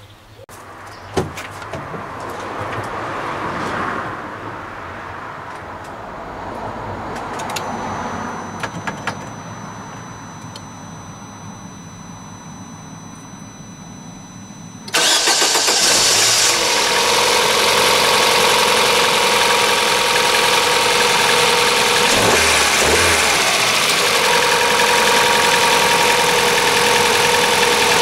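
Vauxhall Astra 1.6-litre 16-valve four-cylinder engine being started from cold: a few clicks, then about halfway through it fires with a sudden jump in loudness and settles into a steady, loud cold idle. The owner says it sounds bad when cold.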